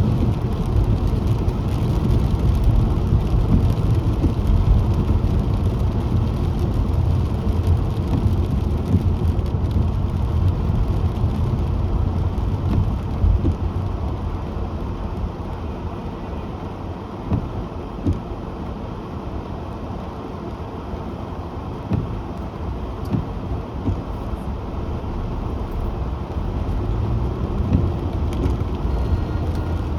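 Car driving: a steady low rumble of road and engine noise that eases off in the middle and builds again toward the end, with a few short knocks in the middle.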